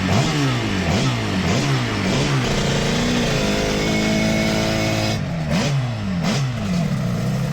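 Motorcycle engine revving hard in quick repeated rising sweeps, holding a steadier note for a couple of seconds midway, then revving up again.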